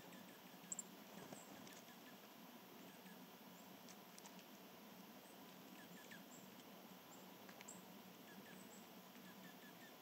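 Near silence: faint outdoor quiet with scattered short, high chirps of small birds and tiny ticks, and one sharper click just under a second in.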